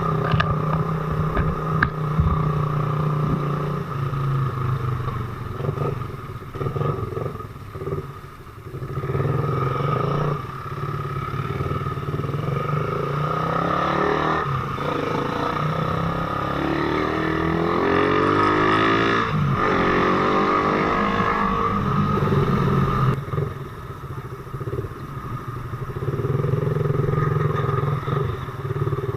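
Motorcycle engine running on the move, its pitch rising and falling as the rider speeds up and slows.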